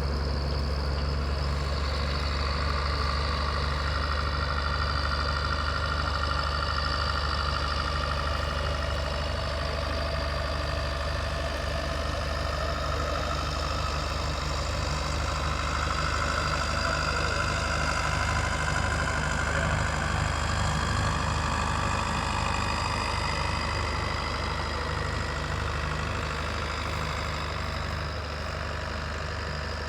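International 956 tractor's diesel engine running steadily while pulling a plough, a constant low drone that fades a little near the end.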